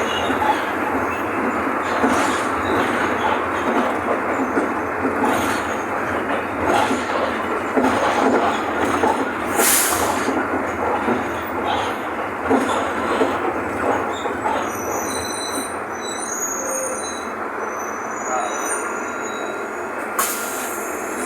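Cabin noise of a Caio Apache VIP V city bus on a Mercedes-Benz OF-1519 chassis under way: steady engine and road noise with constant rattling of the body and fittings. Short high squeaks come in from about two-thirds of the way through.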